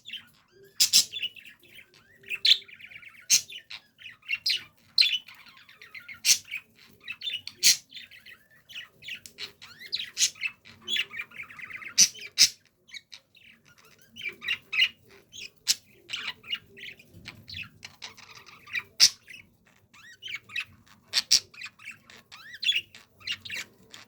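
Budgerigars warbling and chattering, with many short sharp chirps and squawks breaking through the steady chatter.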